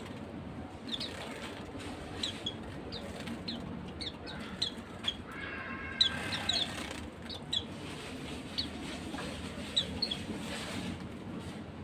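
Pleci (white-eyes) giving short, high chirps again and again, with a few sharp wing flutters. A lower, drawn-out call sounds briefly about five to six seconds in.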